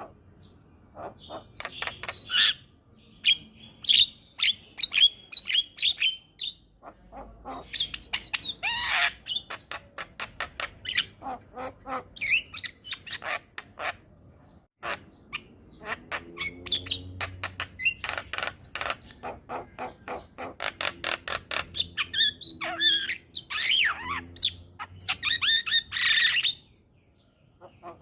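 Javan myna (jalak kebo) singing: long runs of rapid clicking chatter mixed with squawks and short whistled notes, pausing briefly twice and stopping about a second before the end.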